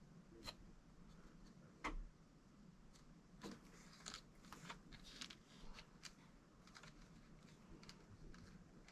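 Near silence with faint, scattered clicks and taps of small parts being handled, one louder click about two seconds in and a cluster of small clicks a little later.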